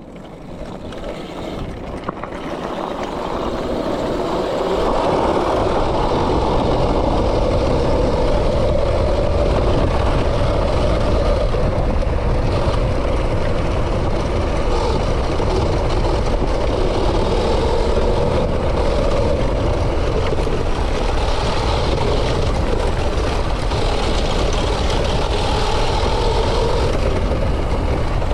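Dirt bike engine running, growing louder over the first five seconds and then holding a steady, slightly wavering note.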